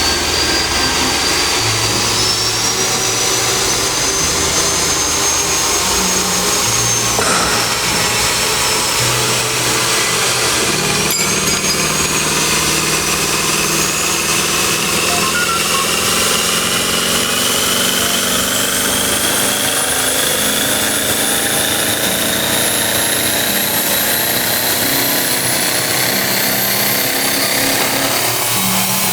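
A power tool running steadily on metal, with a thin whine that slowly rises in pitch.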